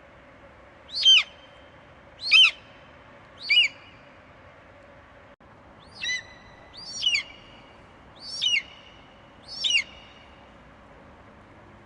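An eagle screeching: seven short, high-pitched calls, each sliding down in pitch, coming about once a second with a short pause near the middle.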